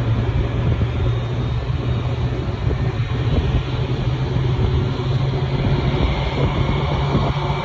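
Jet airliner's engines running, a loud steady rumble with a low hum and a broad hiss that does not rise or fall.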